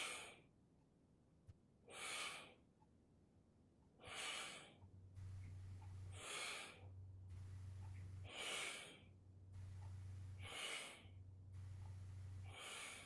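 A person breathing hard and rhythmically, one short breath about every two seconds, seven in all. A low hum comes and goes in stretches from about five seconds in.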